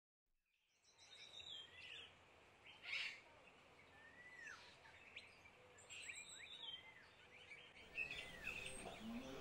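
Faint birdsong fading in from silence: small birds giving repeated arching chirps and short high tweets. A brief rush of noise comes about three seconds in.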